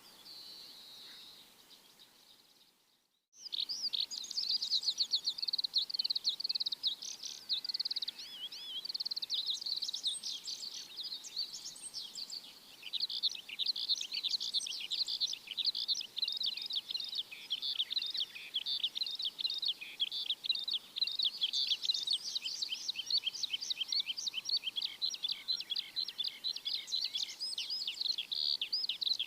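Small birds chirping and trilling in a dense, rapid, high-pitched chorus. The sound cuts out briefly about three seconds in, then the chorus resumes, louder.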